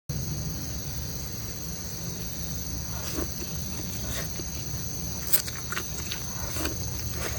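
Steady high-pitched insect chorus, crickets, over a low rumble, with scattered light clicks and taps from about halfway in and one sharper click.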